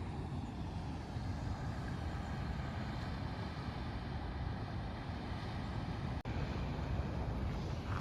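Steady low rumble of wind and ocean surf, with a brief break in the sound about six seconds in.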